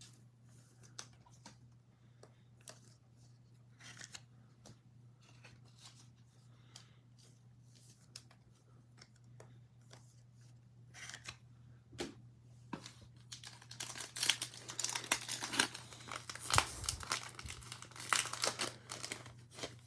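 Trading cards handled with faint light ticks, then about thirteen seconds in the wrapper of a 2021 Absolute Football card pack is torn open and crinkled loudly for several seconds.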